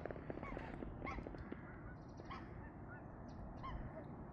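Geese honking in short calls that repeat every half second to a second, over a steady low rumble.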